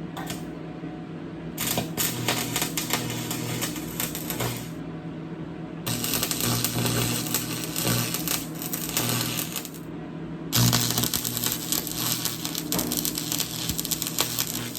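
Stick arc welding: a dense crackling sizzle in runs of a few seconds, with short pauses about five and ten seconds in, over a steady low electrical hum.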